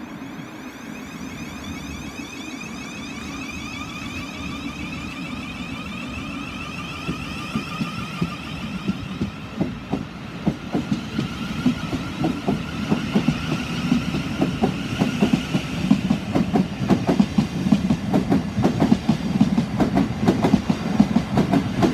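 A Class 700 Thameslink electric multiple unit pulling away. Its traction motors give a whine that rises slowly in pitch as it accelerates. From about halfway through, a growing run of wheel clicks over rail joints joins in and gets louder.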